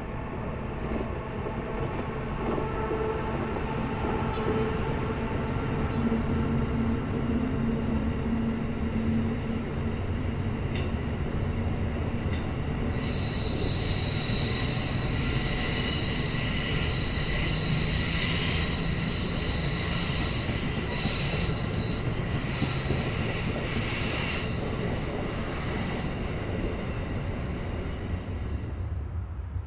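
A train running along the track with a steady rumble. From about halfway through, high wheel squeal rings over it, then stops a few seconds before the end.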